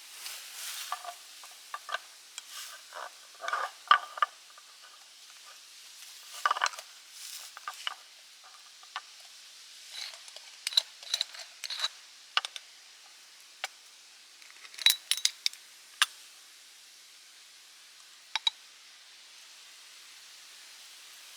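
Objects being handled: scattered light clicks, taps and short rustles, coming in clusters through the first three quarters and then thinning out, over a faint steady hiss.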